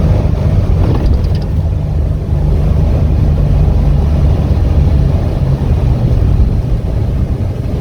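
2018 Hino 155 box truck's diesel engine running with road noise, a steady low rumble heard from inside the cab while driving.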